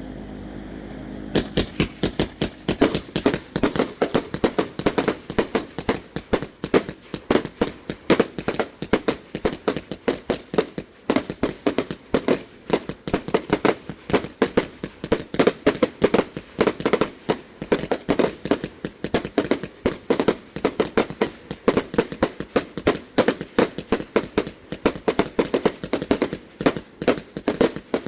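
A 300-shot salute firework cake (King of Kong) firing. A rapid, unbroken string of sharp bangs, several a second, starts about a second in and carries on throughout.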